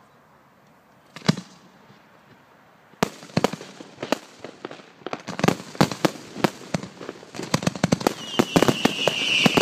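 Fireworks display: a single bang a little over a second in, then from about three seconds a quickening string of sharp bangs and crackles. A high, slightly falling whistle joins near the end.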